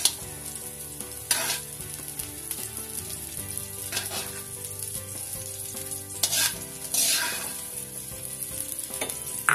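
Onion rings sizzling steadily in hot oil in an aluminium wok, with tongs scraping and clicking against the wok about five times as the fried onions are picked out.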